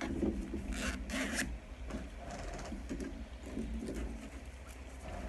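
A zipper being zipped, with two quick strokes about a second in, then softer scraping.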